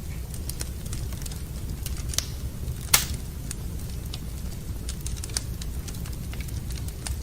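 Wood fire crackling in a fireplace: scattered small snaps and pops over a steady low rumble, with one loud pop about three seconds in.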